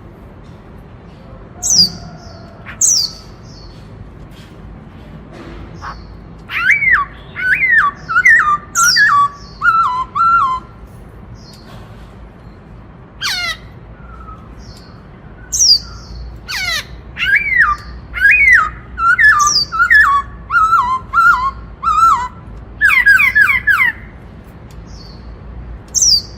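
Black-throated laughingthrush singing loudly: runs of quick, falling whistled notes repeated in phrases. Single sharp high whistles that drop in pitch come between the phrases.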